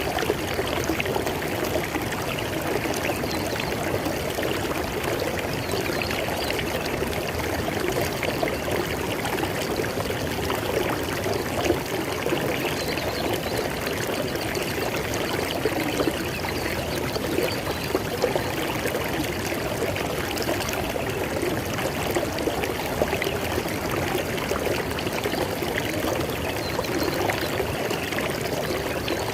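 River water flowing and gurgling steadily over rocks, a continuous rushing babble.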